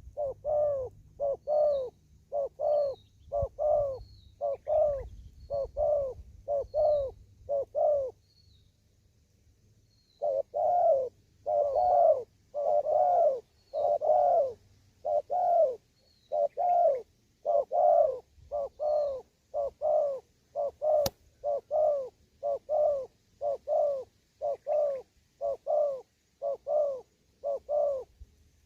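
Spotted dove cooing: a long run of short, repeated coos, about two a second, with a pause of about two seconds a quarter of the way through. Faint high chirps from a small bird sound over the first part, and a single sharp click comes about two-thirds through.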